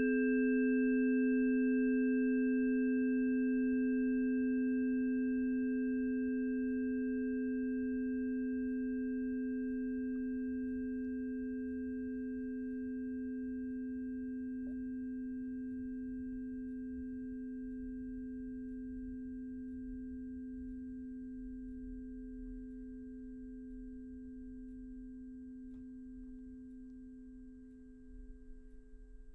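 Singing bowl ringing out after a strike: one long, steady tone with several higher overtones, slowly fading and dying away near the end.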